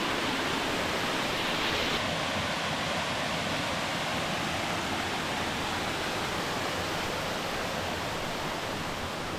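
Creek waterfall rushing steadily, a constant roar of falling water running strong.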